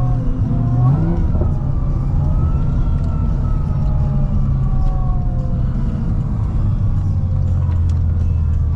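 Supercharged 6.2-litre LS9 V8 of a C6 Corvette ZR1 fitted with a Kong 2650 supercharger, running under light load. A low exhaust rumble sits under a higher whine that rises about a second in, then slowly falls.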